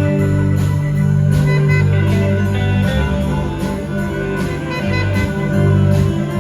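Live rock band playing an instrumental passage: guitar over a held bass line and a steady drum beat.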